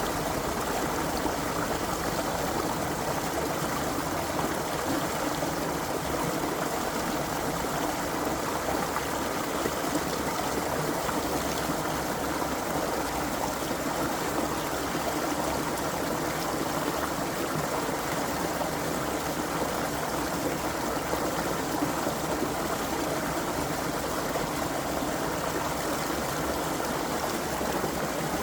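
Creek water flowing and trickling over stones: a steady, even rushing with no changes.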